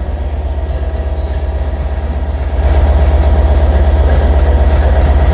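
Stationary train's diesel engine running with a steady low throb, getting louder about two and a half seconds in.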